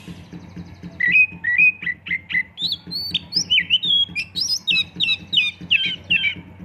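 Oriental magpie-robin (kacer) singing a fast, varied song of sharp whistled notes and chirps, starting about a second in, over a faint low pulsing hum.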